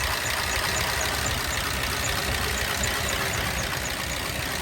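An old truck's engine idling steadily as it warms up, with a faint high tick repeating about two or three times a second.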